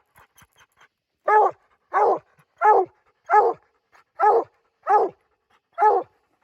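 Treeing Walker coonhound barking at a treed raccoon: seven loud, evenly paced barks, about one and a half a second, starting a little over a second in.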